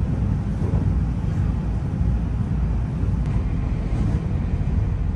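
Steady low rumble of a moving electric train heard from inside the passenger car, its wheels running on the rails.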